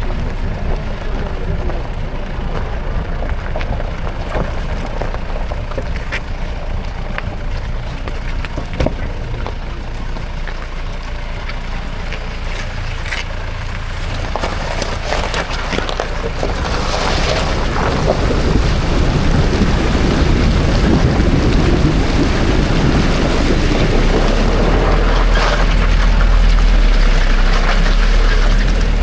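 Wind buffeting the microphone: a steady low rumble under an even rush, with scattered knocks, growing louder about two-thirds of the way through.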